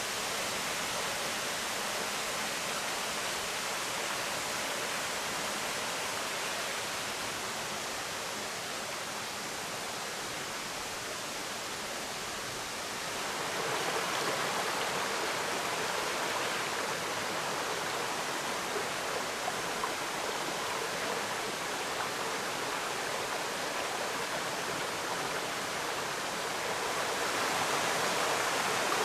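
Waterfall, water falling and rushing in a steady roar that grows louder about halfway through and again near the end.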